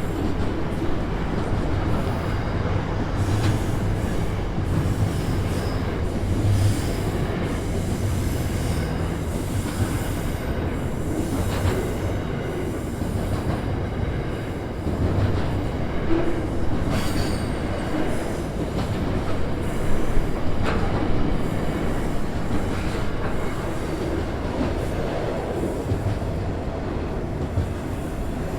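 Long intermodal freight train rolling past: the steady rumble of wagons on the rails, with scattered clicks and a few brief high-pitched wheel squeals.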